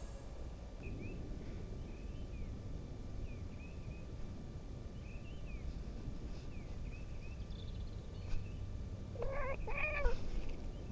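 A domestic cat meows twice in quick succession near the end, over faint, repeated bird chirps and low rumbling noise.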